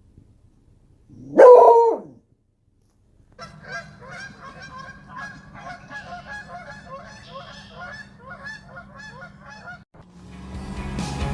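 One loud animal call about a second in, then a quick run of short repeated animal calls over a steady low hum for about six seconds. Music with a car comes in near the end.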